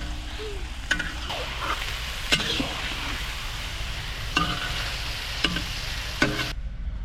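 Food sizzling as it fries in a pot, stirred with a utensil that clicks against the pot about five times.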